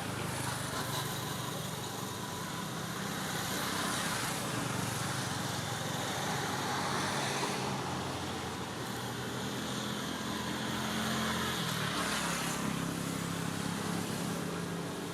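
Motor vehicle running steadily, a low engine hum over road noise, the hum shifting pitch about twelve seconds in.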